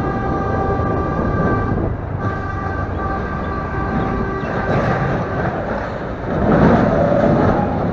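A vehicle horn held in two long blasts with a brief break between them, under steady traffic noise. Near the end a louder rushing, clattering noise takes over.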